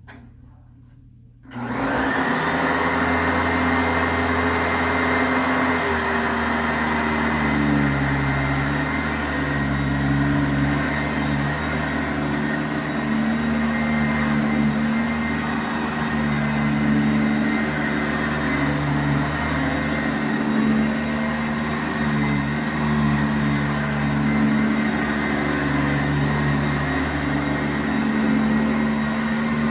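Sanitaire SC684G commercial upright vacuum switched on about a second and a half in, then running steadily while vacuuming carpet. Its hum shifts slightly up and down in pitch every few seconds.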